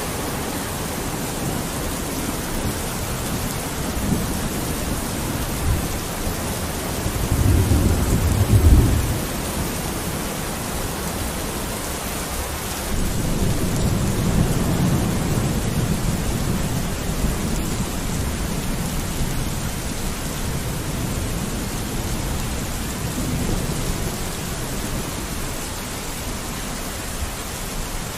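Steady rain falling on a window, a constant hiss, with low rolls of thunder rumbling underneath. The loudest roll comes about a third of the way in, and a longer one comes just after the middle.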